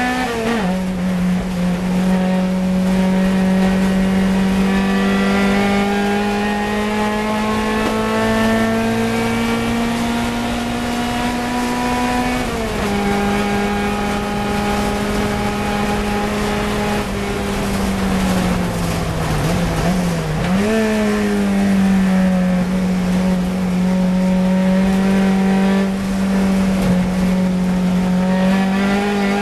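Fiat 124 Coupe race car's twin-cam four-cylinder engine pulling hard at high revs, heard from inside the cabin. The pitch climbs steadily through each gear and drops sharply at an upshift about half a second in and again about 12 seconds in. Around two-thirds of the way through, the note dips and wavers under braking, then jumps back up with a downshift.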